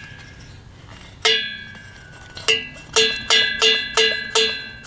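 A ringing metal object struck repeatedly, each tap giving the same bell-like clang: two taps about a second apart, then quicker taps about three a second.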